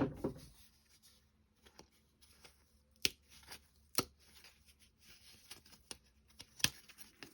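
Small wooden clock-kit parts being handled at a table: a rustle at the start, then light ticks and three sharp wooden clicks, at about three seconds, four seconds and near the end.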